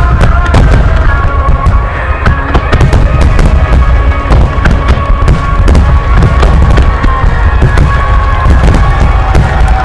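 A dense, continuous barrage of firework shells bursting, many overlapping booms with heavy low rumble, over music with long held notes.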